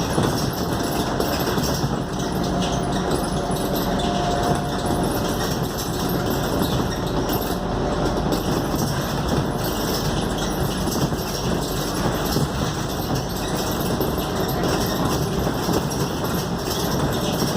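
Scania K280UD double-decker bus under way: a steady mix of engine, drivetrain and road noise with constant fine rattling. A faint whine comes and goes in the first few seconds.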